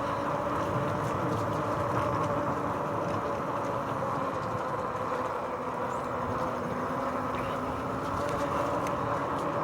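A RadRover 5 e-bike riding along: steady rolling noise of its fat tyres on the trail, with a faint steady hum from the hub motor.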